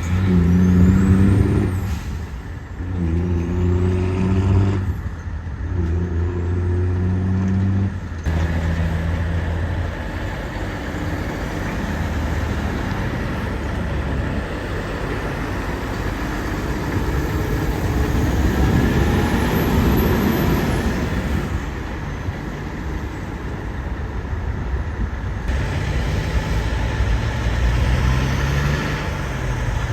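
Semi-trucks passing on the road. At first a diesel engine note breaks off and picks up again several times. Then comes a long swell of engine and tyre noise that peaks around the middle and fades, and near the end an engine note rises in pitch.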